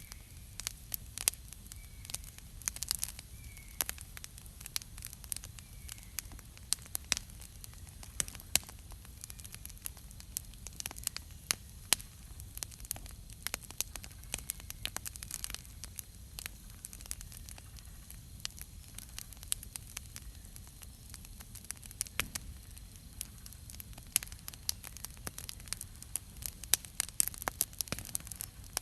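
Wood campfire burning, with frequent sharp crackles and pops that come thickest near the start and again near the end, over a low steady rumble.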